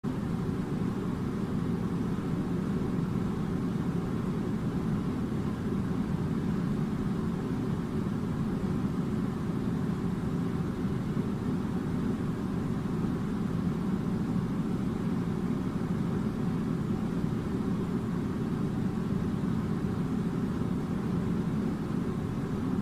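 Air conditioner running: a steady, unchanging low hum with a faint steady tone.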